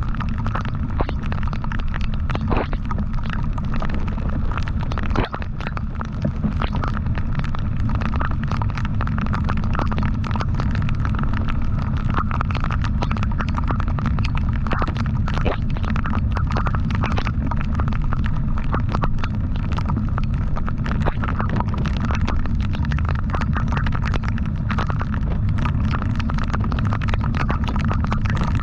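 Wind buffeting the microphone of a moving motorcycle, a steady deep rumble with constant crackles, and the bike's engine running underneath.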